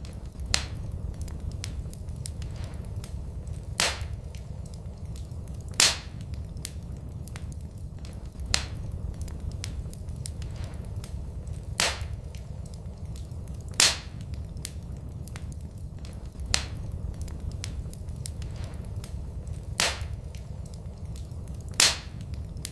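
Wood fire burning in a fireplace, with sharp crackling pops about every two to three seconds over a low, steady rumble.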